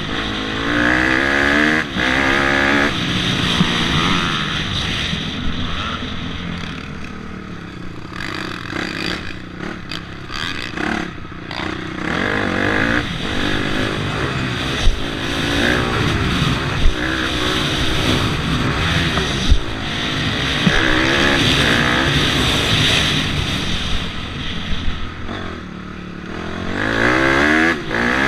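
Motocross dirt bike engine revving hard and backing off again and again, its pitch climbing and dropping as the rider works the throttle and gears, with a few sharp knocks in the middle.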